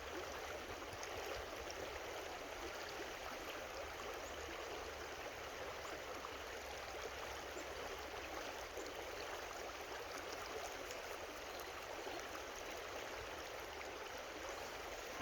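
Creek water running steadily over rocks, a constant rushing that never changes.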